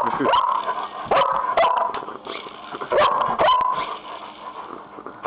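German shepherd barking excitedly, about five loud barks, several of them coming in quick pairs.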